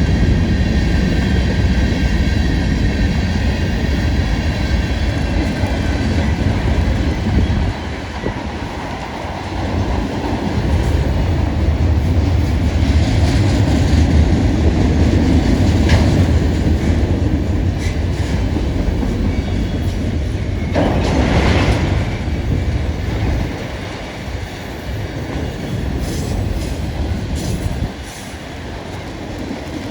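Cars of a long Union Pacific manifest freight train rolling past: a steady heavy rumble with wheel clatter over the rail joints. Brief wheel squeals cut through, the clearest about three quarters of the way in.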